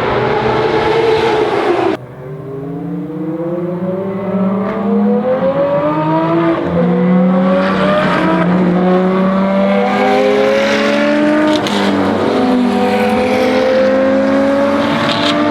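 Ferrari FXX Evo's V12 racing engine at high revs. Its note breaks off abruptly about two seconds in, then climbs in pitch again and again through several upshifts as the car accelerates.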